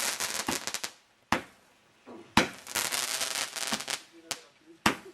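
Multi-shot firework box (cake) firing: sharp bangs every second or two, each followed by a spell of dense crackling.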